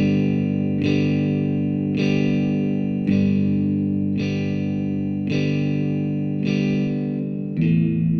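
Background music: an effects-laden electric guitar playing sustained chords, a new chord struck about once a second.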